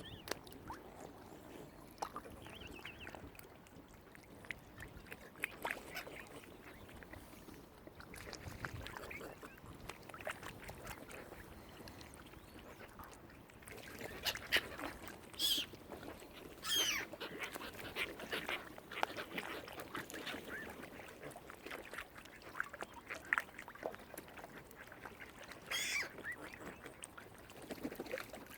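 Waterfowl calling: scattered short calls and clicks throughout, with a few sharper, high-pitched calls about halfway through and again near the end.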